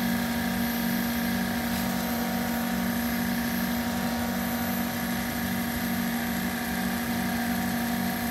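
Boyard JVSB180Z48 48 V DC refrigeration compressor running steadily on its test run: a continuous, even hum.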